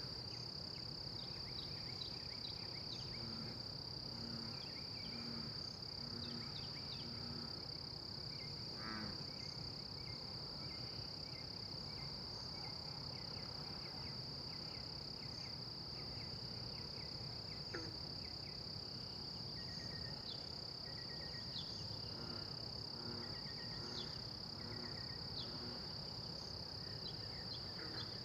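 Crickets trilling in one unbroken high-pitched drone, with faint short chirps and a few series of short low notes from another animal a few seconds in and again after about twenty seconds.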